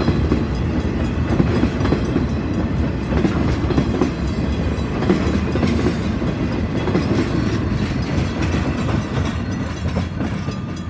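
A freight train's ballast hopper cars rolling past close by: a steady rumble of steel wheels on rail, with scattered knocks and clicks from the wheels and cars. It grows a little quieter near the end.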